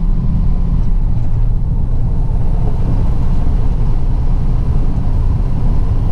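Semi truck's diesel engine and road noise while driving: a steady low drone.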